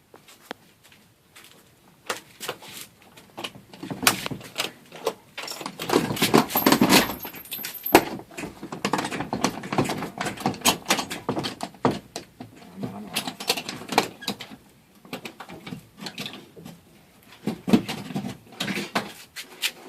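Irregular metal clanks, knocks and clicks from garage door hardware being handled while a door panel and its hinges are taken off, busiest in the middle.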